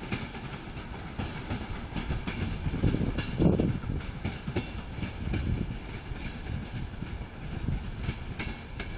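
A departing passenger train's carriages rolling away along the track, their wheels clacking over the rail joints and points. There is a louder low thump about three and a half seconds in.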